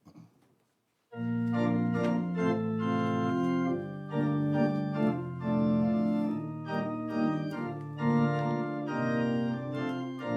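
Organ playing sustained chords, starting about a second in after near silence: the introduction to a congregational hymn.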